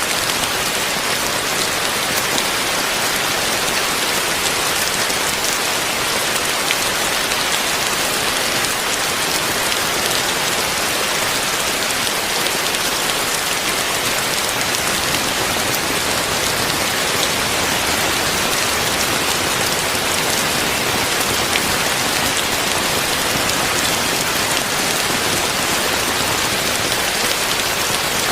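Heavy rain falling steadily, a dense, even hiss made of many close drop impacts.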